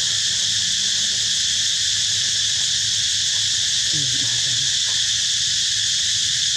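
Dense insect chorus, a continuous high shrill drone at an even level.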